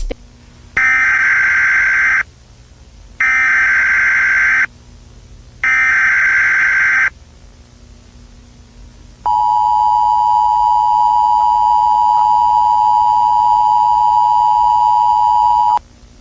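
Emergency Alert System broadcast tones: three short, identical bursts of screeching data tone (the SAME header), then a steady two-tone attention signal for about six and a half seconds that cuts off abruptly.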